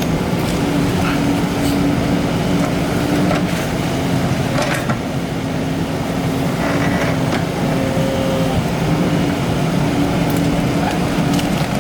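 Excavator's diesel engine running steadily under load, its pitch stepping slightly up and down, with scattered short knocks and scrapes.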